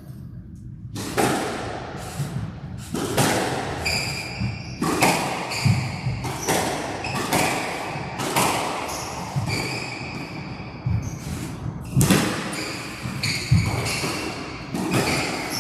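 A squash rally: the ball cracks off rackets and walls about once a second, with shoes squeaking on the court floor between the shots.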